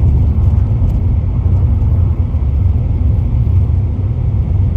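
Steady low rumble of a motor vehicle, without change.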